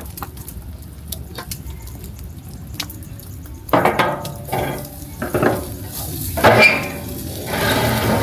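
Pots, dishes and utensils being handled: a few light clicks and clinks, then four louder scraping, clattering bouts in the second half.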